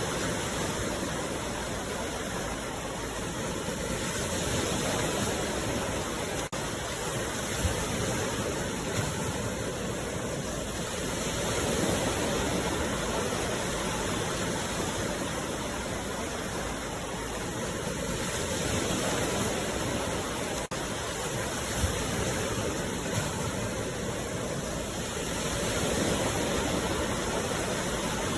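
Sea waves washing onto the shore: a continuous rush of surf that swells and eases about every seven seconds, with a few brief clicks.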